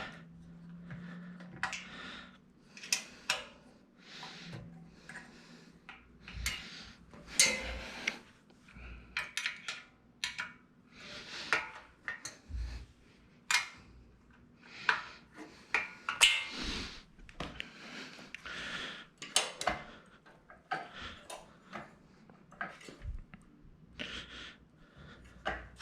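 Irregular metallic clinks, clicks and knocks of hand-tool work on a cutting plotter's metal stand frame, as its screws are worked and the frame is handled.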